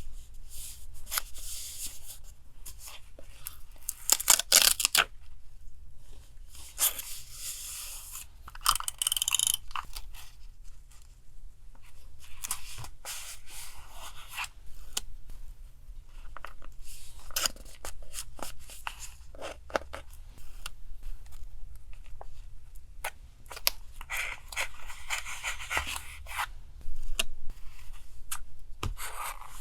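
Paper collage materials being handled at a desk: rustling, tearing and snipping in short irregular bursts, the loudest about four seconds in and again near the end, over a steady low refrigerator hum.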